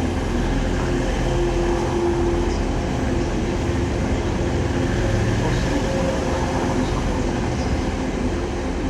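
Class 185 diesel multiple unit running into the station: a steady diesel engine drone with rail noise.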